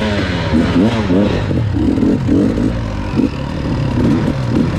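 Dirt bike engines revving, their pitch rising and falling again and again over a steady low engine drone.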